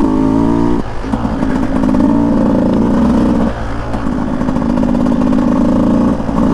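Beta 200 two-stroke dirt bike engine under throttle, the revs rising, then cut back about a second in. Two longer stretches of steady throttle follow, separated by a short dip, with another brief drop and burst near the end.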